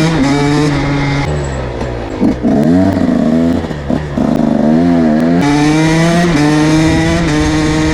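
2022 KTM SX 125 two-stroke motocross engine under way: a steady pitch, then a few quick rises and falls of the revs in the middle, then holding steady again.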